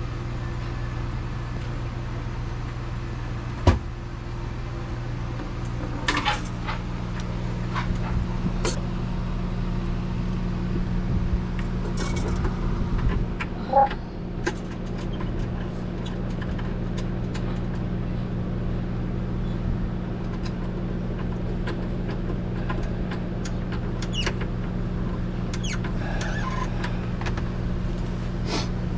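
A steady low mechanical hum, like a running engine or machine, with a second, higher tone joining a few seconds in. Scattered clicks and knocks sound over it, with sharper knocks about 3.5 seconds and 14 seconds in.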